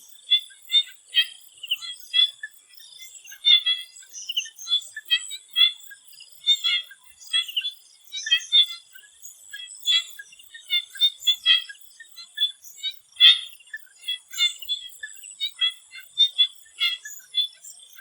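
Chorus of swamp frogs calling in short, high chirps, many overlapping at several calls a second, over a steady high-pitched whine.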